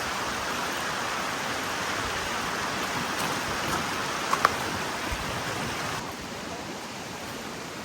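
Valley stream rushing over rocks, a steady wash of water, with two small knocks about four and a half seconds in; the water sound gets quieter about six seconds in.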